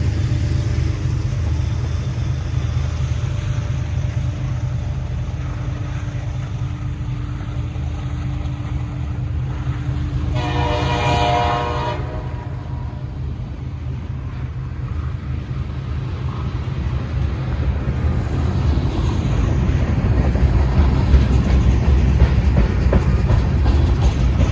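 Diesel freight locomotive rumbling, with one horn blast of about a second and a half about ten seconds in; wheel and rail noise grows louder toward the end as the train comes closer.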